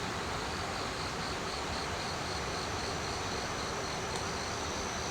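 Insects chirring: a steady high-pitched whine with a softer chirp pulsing about three times a second over a constant hiss.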